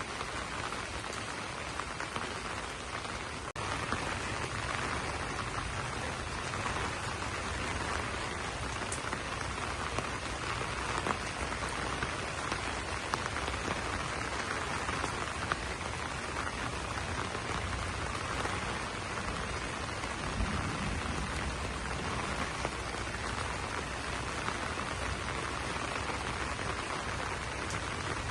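Steady rain falling on broad banana leaves: a dense, even patter with occasional separate louder drops.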